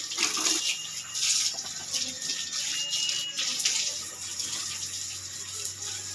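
Water spraying and splashing from a hose while a motorcycle is being washed, the rush surging and easing every second or so.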